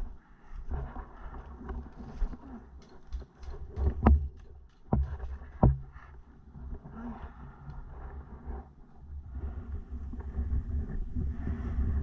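Wind and handling noise rumbling on the microphone, with three sharp knocks about four to six seconds in; the rumble grows denser near the end.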